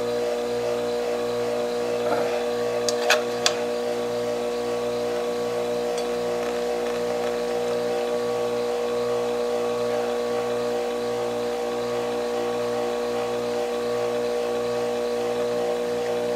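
A vertical water-cooled whetstone sharpener (SDG-150H) running under its electric motor, a steady hum with a low throb that pulses about once a second as the wheel turns. A couple of sharp clicks come about three seconds in.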